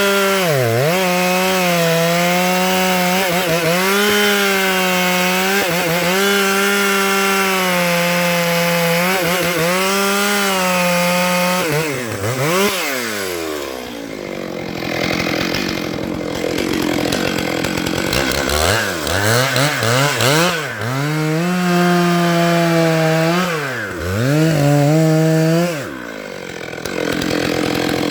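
Stihl MS 661 two-stroke chainsaw cutting a pine log at full throttle. The engine pitch dips and recovers every couple of seconds as the chain bites into the wood. It falls off briefly about twelve seconds in, then climbs back to high revs and drops again near the end.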